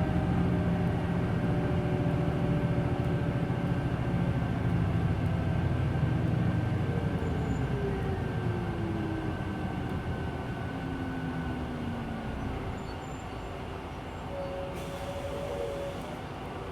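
Hino Blue Ribbon City Hybrid bus heard from inside the cabin. The diesel drivetrain runs loud for the first several seconds, then falling whines as the bus slows and the sound drops to a quieter steady running. A brief soft hiss comes near the end.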